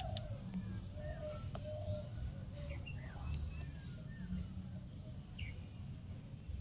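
Small birds chirping outdoors in short, scattered calls over a steady low rumble.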